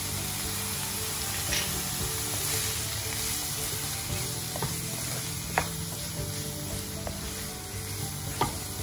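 Chopped bitter gourd and onion sizzling in sesame oil in a kadai while being stirred with a spatula, which knocks against the pan a few times.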